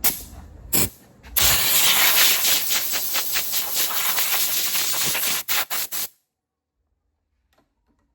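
Compressed-air blow gun blasting dirt out of a toolbox drawer: two short puffs, then a steady loud hiss for about four seconds, ending in three quick bursts.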